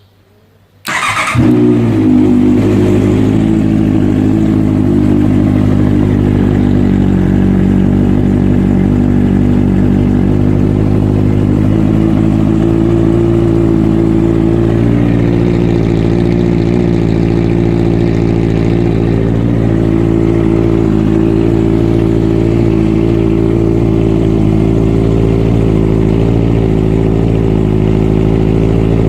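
Honda CBR650F inline-four motorcycle engine starting about a second in, then idling steadily through an aftermarket exhaust.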